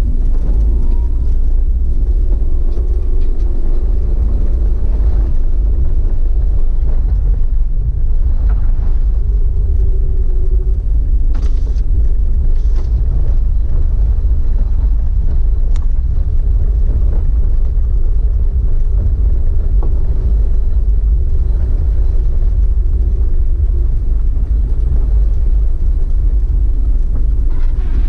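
Waterfall pouring close to the microphone: a loud, steady low rumble that does not let up.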